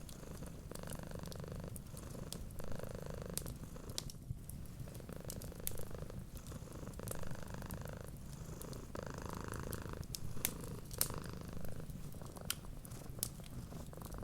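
Cat purring steadily, the purr swelling and easing with each breath about once a second. Scattered sharp crackles and pops from a wood fire sound over it.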